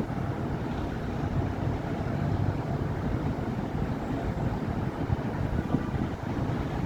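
Steady city traffic on a busy avenue: a continuous low rumble of car and bus engines and tyres passing, with no single event standing out.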